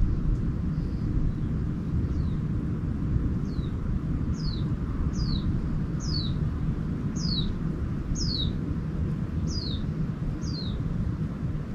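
A small songbird repeating a short, high note that falls in pitch, about once a second, nine times or so, louder in the middle of the series. Under it runs a steady low rumble.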